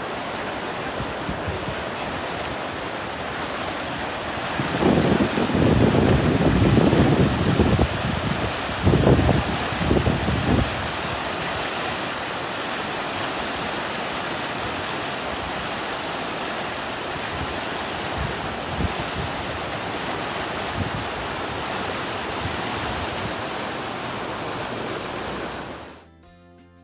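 Steady rush of flowing water. Wind buffets the microphone in loud gusts for about six seconds, starting around five seconds in. The sound cuts off suddenly near the end.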